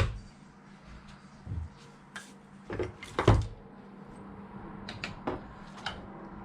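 Scattered light knocks and clicks of things being handled, the loudest a sharp knock about three seconds in, over a steady low hum.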